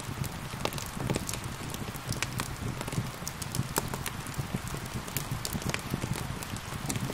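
Steady rain hissing together with a wood fire crackling, with frequent sharp pops and snaps at irregular moments.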